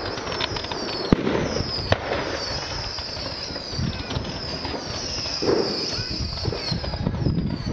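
Firework display: continuous crackling and fizzing, with sharp bangs about a second in and again shortly after, and repeated high falling whistles.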